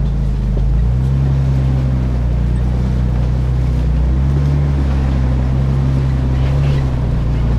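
Nissan Xterra engine droning at low revs while the truck drives off road, its note shifting a little a few times, over steady tyre and road rumble.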